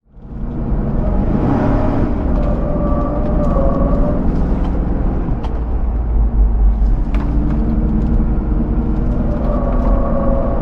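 Hummer H2's 6.0-litre V8 running with a steady low drone and a slowly shifting engine note, with a few short clicks. The sound fades in over the first half second.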